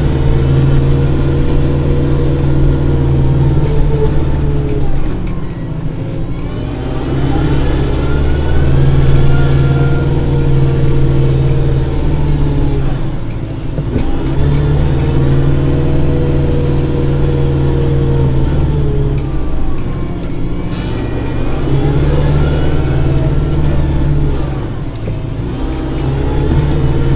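Kubota diesel tractor running with its snowblower engaged while clearing snow. The engine note sags and recovers in a repeating cycle about every six or seven seconds.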